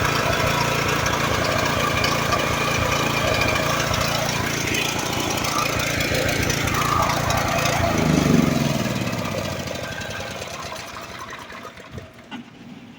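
Small portable generator engine running steadily, then about eight seconds in its pitch falls and it winds down and stops.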